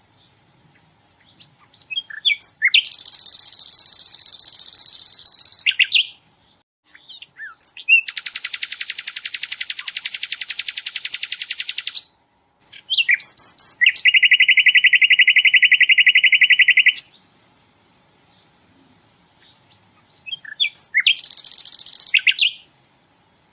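Sikatan londo flycatcher singing: four long, very rapid, even trills of about two to four seconds each, each at a different pitch, the third the lowest, with short chirps between them.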